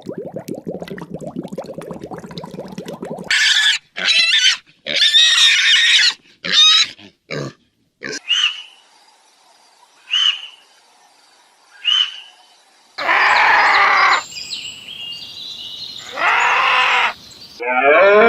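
Pig grunting in a fast run of low pulses, then a burst of high, sharp squeals. Later come three short chirps about two seconds apart, two longer harsh animal calls, and a pitched, lowing call that starts near the end.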